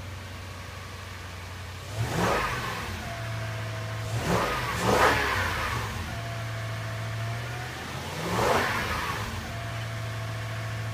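2005 Toyota Tundra's V8 idling while warming up after a cold start, revved briefly three times, about two, five and eight and a half seconds in.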